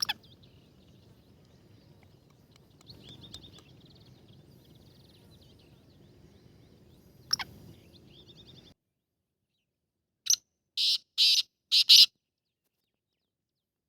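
Black francolin calling: a loud, harsh series of five notes in under two seconds, about ten seconds in. Before it, faint small-bird chirps over low background noise, with two sharp clicks.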